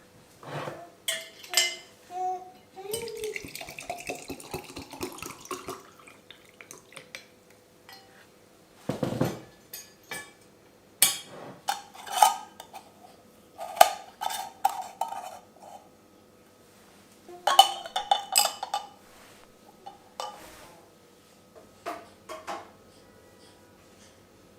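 Dishes and metal cutlery clinking and clattering during meal preparation, in a string of separate knocks, several leaving a short ring, with a heavier thump about nine seconds in.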